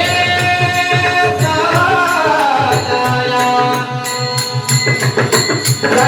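Marathi devotional bhajan music: a pakhawaj drum plays a fast, even rhythm of deep strokes under a sung line that is held, then wavers up and down about two seconds in, with sharp metallic strokes keeping time.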